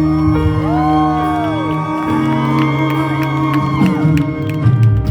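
Live band music: held, sustained chords with a voice gliding in pitch over them.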